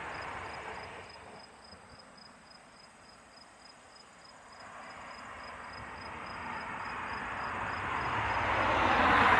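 Faint distant engine noise that dies away, then slowly builds up again over the last several seconds, with a faint steady chirp repeating about two to three times a second.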